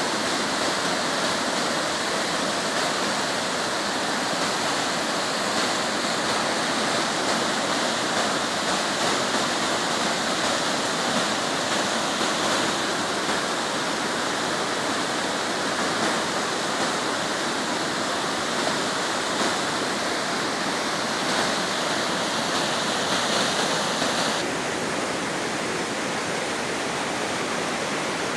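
Waterfall rushing: a steady, loud wash of falling water, a little softer near the end.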